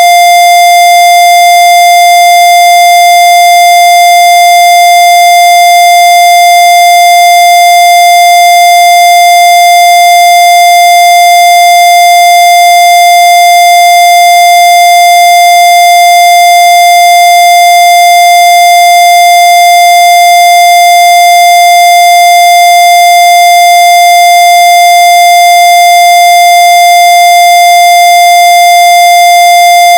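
A loud, steady electronic tone held at one pitch without any change, with a row of overtones above it.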